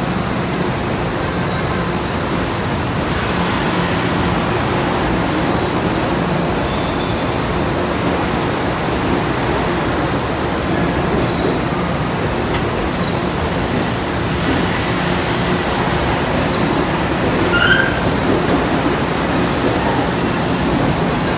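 Long Island Rail Road electric commuter train rolling slowly past on the next track: a steady rumble with a low hum, and a short wheel squeal about 18 seconds in.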